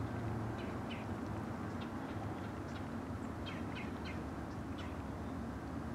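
Steady low rumble of an approaching diesel freight locomotive, heard from a distance, with a small bird chirping repeatedly over it, the chirps bunched a little past the middle.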